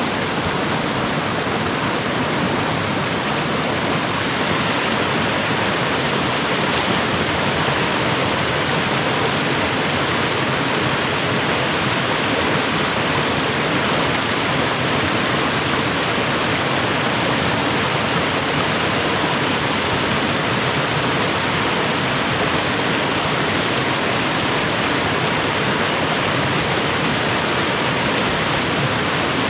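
A mountain creek and its small waterfalls rushing steadily.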